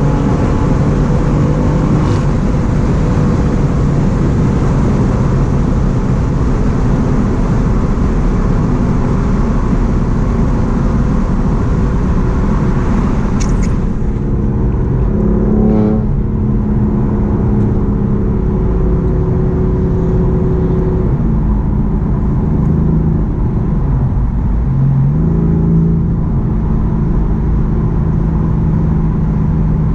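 BMW M4's twin-turbo straight-six, breathing through an Akrapovic full-system exhaust, pulling steadily on the road over loud road and wind noise. The engine note changes pitch a few times, stepping down and climbing again with gear changes and throttle.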